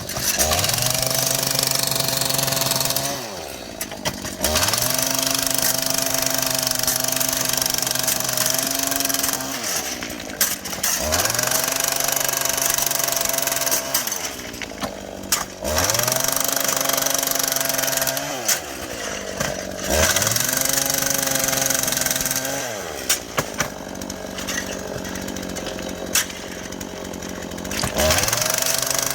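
Small petrol engine of a track worker's rail tool revving up, held at high speed for several seconds, then dropping back to idle, about five times over. This is the repeated working cycle of rail cutting or grinding during rail repair.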